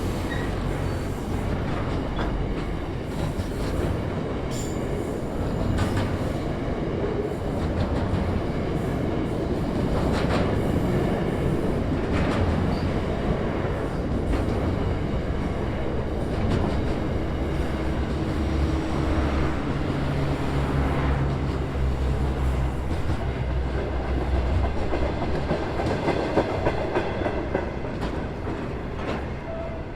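Intermodal freight train rolling past, its wagon wheels clacking and knocking over the rail joints in a steady run, with a low hum rising and fading in the middle.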